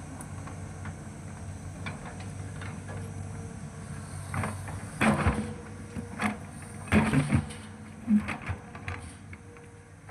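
Hitachi excavator's diesel engine running steadily, with a series of loud clanks and knocks about halfway through as it works.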